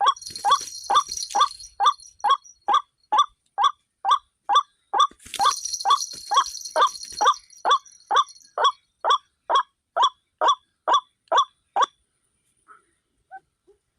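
White-breasted waterhen call: a short 'kruwak' note repeated evenly about twice a second, which stops about twelve seconds in. Twice, once near the start and again around five to seven seconds in, a high hiss with thin high tones sounds over it.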